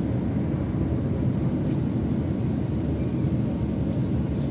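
Steady low rumble of a moving passenger train heard from inside the carriage, with a short hiss about halfway through.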